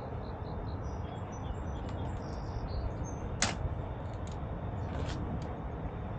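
Steady low rumble with faint, short bird chirps in the first half, and a single sharp click about three and a half seconds in.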